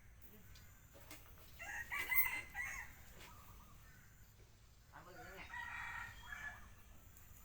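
A rooster crowing twice, once about two seconds in and again about five seconds in.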